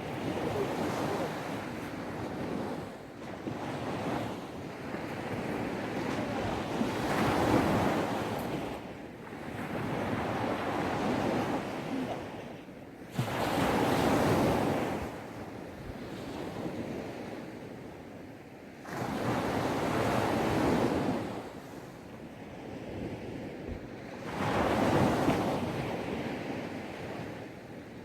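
Gentle sea waves breaking and washing up on a sandy beach, surging and falling away every five or six seconds, with some wind on the microphone.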